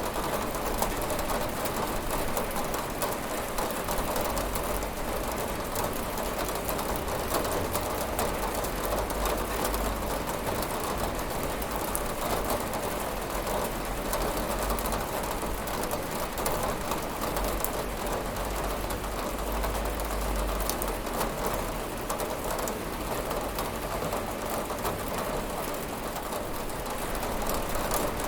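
Steady rain falling on a window: a dense run of drop ticks over an even hiss, with a low rumble beneath, unchanging throughout.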